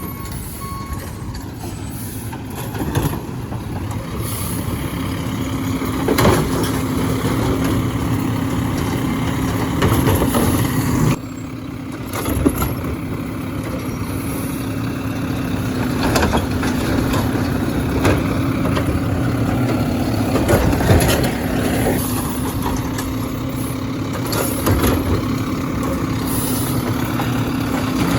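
Garbage truck running with a steady mechanical hum, broken every few seconds by sharp clanks and knocks. Its reversing beeper is still sounding at the very start.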